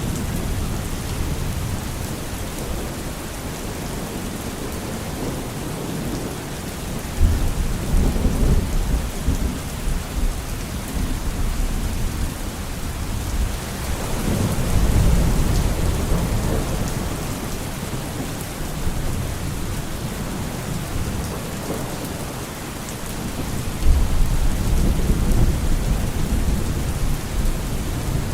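Steady rain falling, with thunder rumbling three times: sudden low cracks at about seven seconds and near the end, and a slower swelling rumble around the middle.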